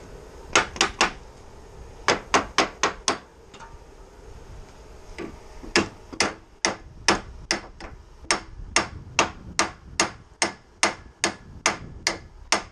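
Hammer striking steel on the truck body's stake and brackets: a quick group of three blows, then four more, then a steady run of blows at about two or three a second, each with a short metallic ring.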